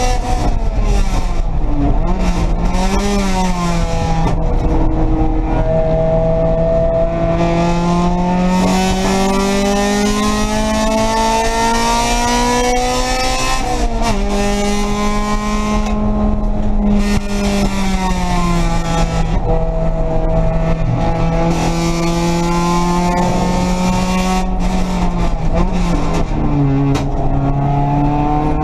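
Race car engine heard from inside the cabin under hard driving on a road course. It winds up slowly for about ten seconds, then drops sharply about halfway through as it shifts up, runs on at steady revs, and dips and climbs again near the end. Heavy wind and road noise rise with the speed.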